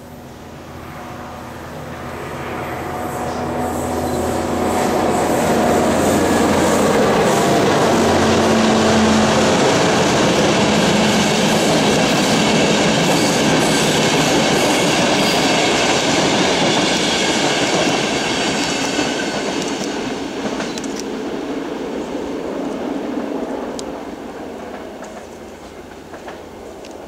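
Passenger train passing at speed. The rush of wheels on rail with a clickety-clack builds up, stays loud for more than ten seconds, then fades away. A tone drops in pitch as it goes by.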